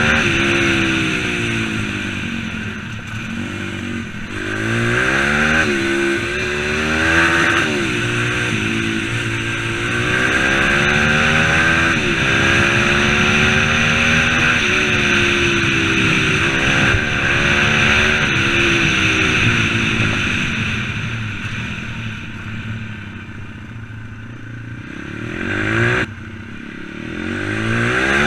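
M2R 140cc pit bike's single-cylinder four-stroke engine under riding, its revs climbing and falling again and again as the throttle is worked through the gears. It eases to lower revs in the later part, cuts back sharply shortly before the end, then climbs again.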